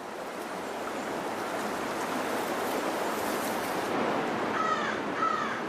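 Rushing creek water, a steady hiss, with two short high calls near the end.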